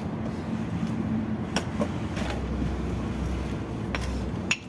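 Steady workshop background noise, a deeper low hum coming in about two seconds in, with a few short sharp clicks of parts being handled.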